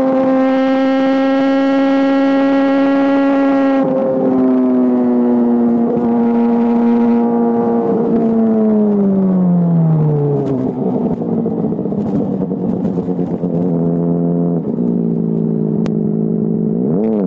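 Honda CBR600RR inline-four running through a GPR Deeptone aftermarket exhaust, held at steady high revs, then the revs fall away to a low, even running speed. A short blip of the throttle comes near the end, and a quick rev just before the sound cuts off.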